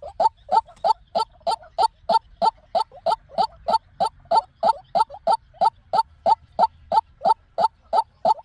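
White-breasted waterhen calling: an unbroken, steady series of short repeated notes, about three and a half a second.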